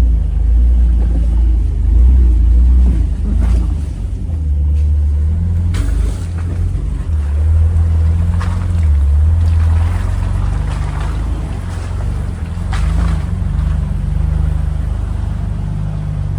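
Jeep engine running at low revs as it crawls a rocky trail, a steady deep rumble with a few faint knocks.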